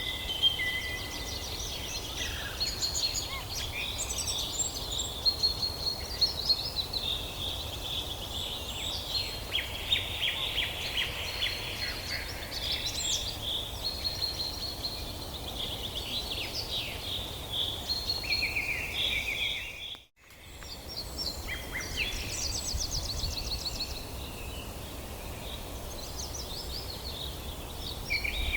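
Several songbirds singing at once, a dense chorus of chirps, trills and whistles, over a steady low rumble. The sound drops out completely for a moment about two-thirds of the way through.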